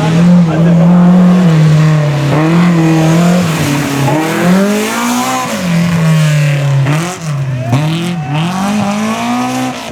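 Rally car engine running hard close by, cutting in suddenly at full volume. It holds a steady high note for about three seconds, then the revs drop and climb again several times.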